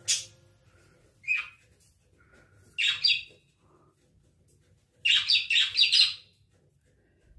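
Budgerigar chirping in short bursts: a single chirp about a second in, a pair near three seconds, and a quick run of several chirps around five to six seconds.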